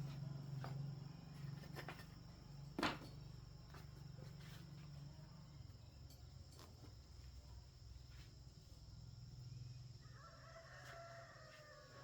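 A rooster crowing once, faint, in a long call that falls slightly at the end, starting near the end. Earlier there is a single sharp knock about three seconds in, over a low hum that fades out partway through.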